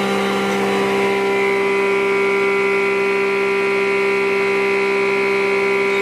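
Woodworking power tool motor running at a steady speed: a constant hum with a high whine above it.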